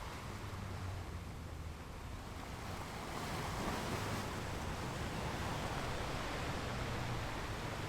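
Sea waves breaking on rocks: a steady wash of surf that swells about three seconds in as a wave breaks.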